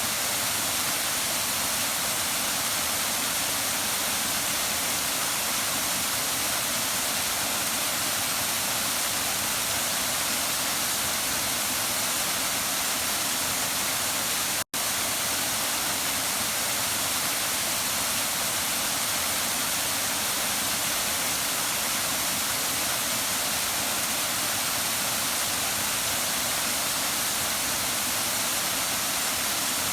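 Waterfall rushing: a steady hiss of falling water, with a momentary dropout about halfway through.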